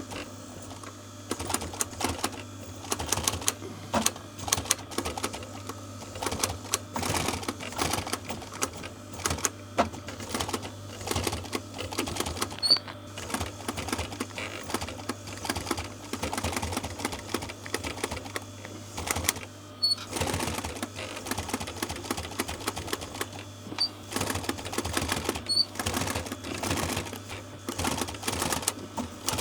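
Sewing machine stitching seat upholstery panels in runs of rapid needle strokes, stopping and starting, over a steady low hum.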